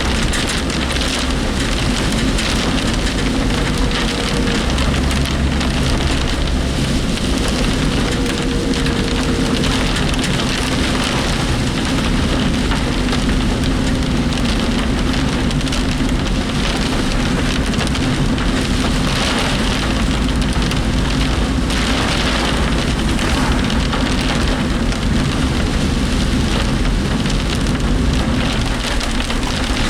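Heavy typhoon rain drumming on a moving work vehicle, heard from inside the cab. Underneath runs a steady engine and road drone, along with the rattling of the work vehicle's body.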